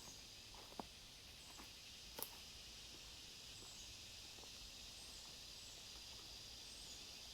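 Near silence outdoors: a faint, steady high-pitched insect buzz, with two faint clicks about one and two seconds in.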